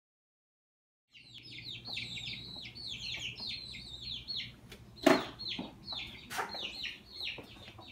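Birds chirping in a rapid string of short, high, falling chirps, starting about a second in, over a low steady hum. Two sharp knocks come about five and six and a half seconds in.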